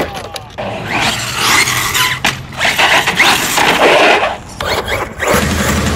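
Team Corally Kagama 1/8-scale RC truck driving hard on concrete: tyres scrabbling and skidding with short squeals over the motor's whine, in several bursts of throttle.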